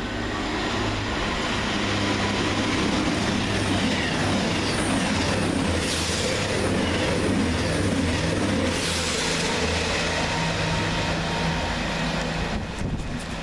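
Two coupled Class 221 Super Voyager diesel multiple units passing, the steady drone of their diesel engines over rushing wheel and rail noise.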